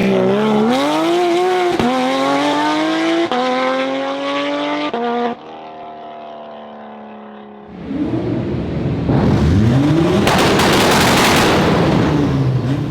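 High-performance car's exhaust under hard acceleration, the engine note climbing in pitch and dropping back at each of three quick upshifts. It then falls to a quieter steady note, and from about eight seconds in turns loud and rough, with the engine pitch sweeping up and down over a noisy rush.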